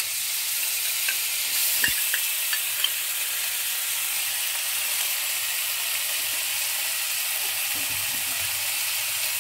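Ground spice paste and vegetables frying in oil in a kadai, a steady sizzle that grows a little brighter about a second and a half in as the paste goes in. A few light clicks of the spoon against the bowl and pan in the first three seconds.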